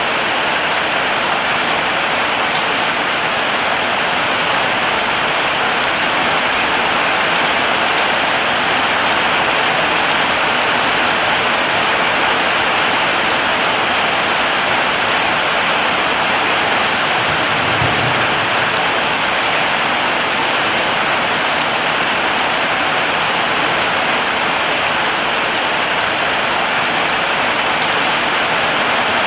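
Heavy rain falling steadily, an even unbroken hiss. One short low thump about two-thirds of the way through.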